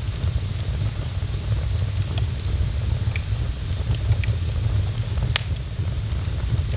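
Wood fire crackling in a fireplace: scattered sharp pops and snaps, one louder pop about halfway through, over a steady low rumble.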